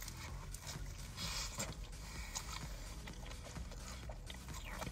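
Faint chewing of a mouthful of pizza: scattered small clicks and smacks over a low, steady room hum.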